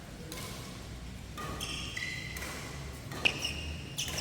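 Sneakers squeaking on an indoor badminton court floor during a rally, in several short high squeals, with one sharp racket hit on the shuttlecock a little over three seconds in.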